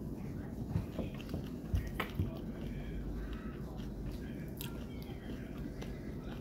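Close-up chewing and small eating noises at a meal table, with scattered light clicks and a few soft knocks about one to two seconds in.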